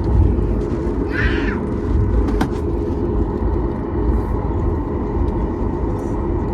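Steady rumble of a Boeing 737 MAX 9's engines and airflow heard from inside the passenger cabin. A short high-pitched sound comes about a second in, and a click comes a little later.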